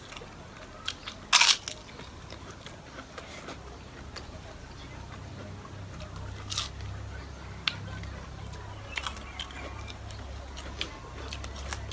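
Close-miked eating: crunchy bites and chewing with wet mouth clicks, including a loud crisp crunch about a second and a half in and another about six and a half seconds in. A faint low hum comes in after about two seconds.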